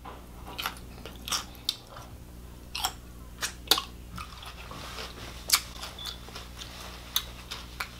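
Close-miked eating sounds: crunchy bites and chewing of bread-and-butter pickle chips, as a run of irregular crisp crunches over a faint steady low hum.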